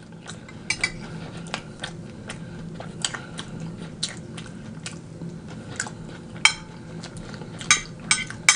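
Close-miked eating sounds: fried chicken wings being bitten and chewed, with scattered sharp crisp clicks and a few louder crunches in the last few seconds.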